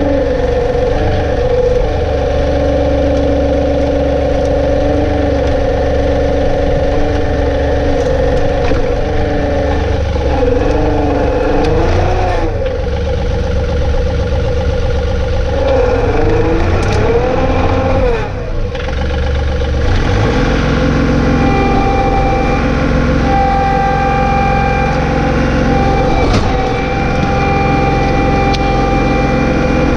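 John Deere 2032R compact tractor's three-cylinder diesel engine running steadily. Its pitch dips and rises twice around the middle, then settles at a new steady speed with a higher tone.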